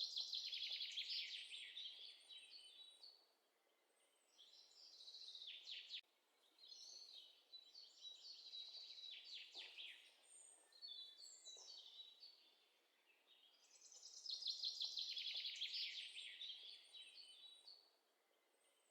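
Faint birdsong: bouts of rapid, high chirps and trills, coming and going every few seconds with short quiet gaps between them.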